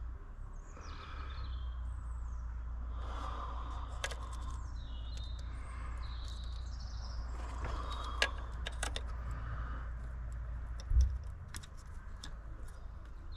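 Small birds chirping in the background over a steady low rumble, with a few sharp clicks and one heavy thump about eleven seconds in.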